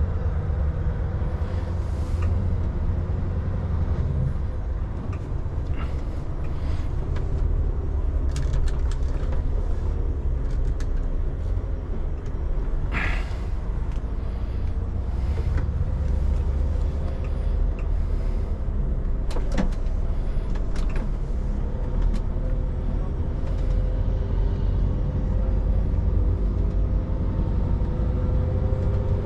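Truck engine and road rumble while driving along steadily, with scattered short clicks and rattles.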